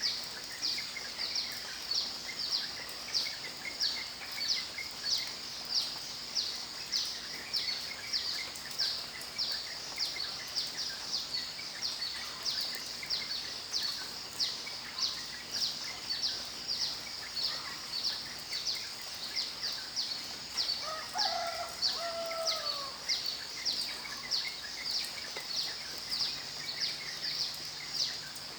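Nature ambience: a high chirp repeated steadily about twice a second over a faint hiss, with a lower, sliding two-part call about 21 seconds in.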